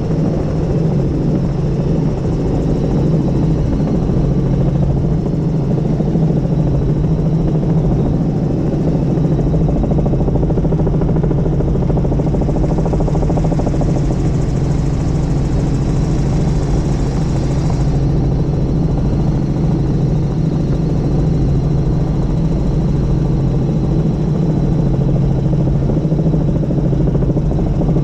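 Helicopter in flight: loud, steady rotor and engine noise with a thin high steady tone. A hiss rises over it for about six seconds in the middle and then cuts off suddenly.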